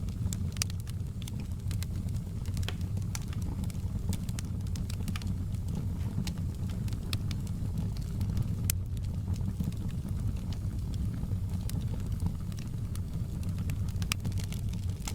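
Wood fire crackling in a fireplace: a steady low rumble with scattered sharp pops and snaps of burning wood.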